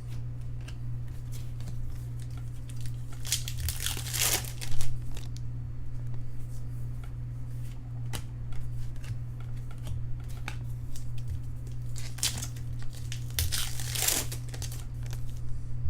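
Trading-card pack wrappers being torn open and crinkled, in two longer bouts, with scattered clicks and rustles of cards being handled in between, over a steady low hum.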